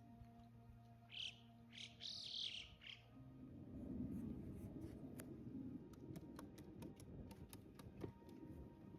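Small birds chirping a few times about a second in, high-pitched and brief. They are followed by low rustling with scattered light clicks.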